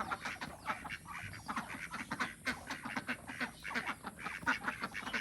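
Ducks quacking, many short calls in quick succession from several birds at once.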